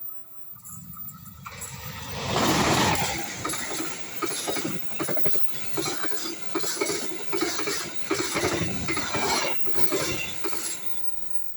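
Indonesian train passing a railroad crossing at speed: a rush of noise builds to its loudest as the front of the train goes by, then a long run of clickety-clack from the cars' wheels over the rail joints, fading away near the end.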